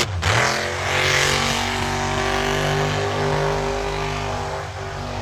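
Monster truck engine revving: a quick dip and climb of the revs at the start, then held at a high, nearly steady rev.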